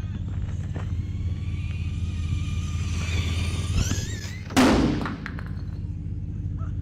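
An electric RC truck's brushless motor whines and rises in pitch, then a loud impact thump comes about four and a half seconds in, over a steady low hum.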